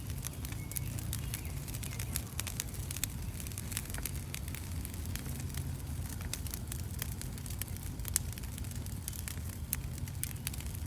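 Campfire burning, with frequent sharp crackles and pops throughout over a steady low background noise.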